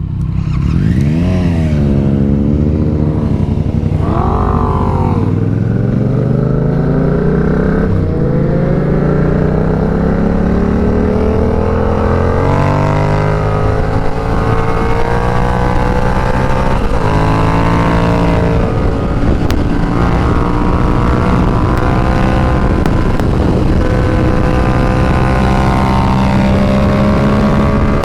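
Yamaha FZ-07's parallel-twin engine blipped twice, then pulling away and accelerating in a long rise in pitch. It shifts up about twelve seconds in and settles into a steadier run, with brief dips at later shifts.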